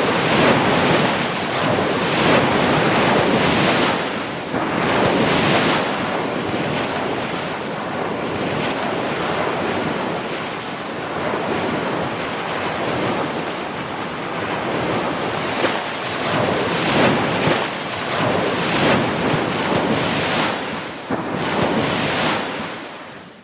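Ocean surf: waves breaking and washing in a continuous rush that swells and eases every few seconds, with wind buffeting the microphone. The sound fades out quickly near the end.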